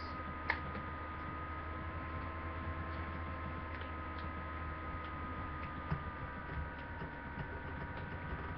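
Steady low electrical hum and hiss with faint thin whining tones, broken by two soft clicks, one about half a second in and one near six seconds.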